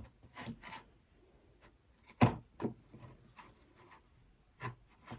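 Scattered light clicks and taps of small objects being handled on a table, with one sharper knock about two seconds in.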